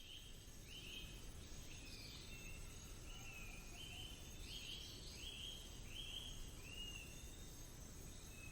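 Faint forest ambience: an animal calling over and over, short high notes that each fall a little in pitch, about three every two seconds, over a soft steady hiss.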